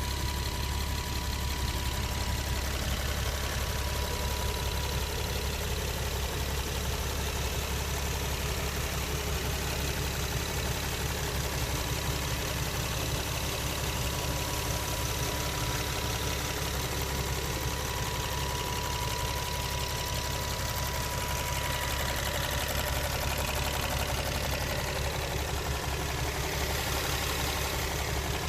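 Infiniti G37's 3.7-litre VQ37VHR V6 idling steadily with a fast ticking. The owner traced the ticking to the vapor canister purge solenoid, which he suspects of causing the rough idle.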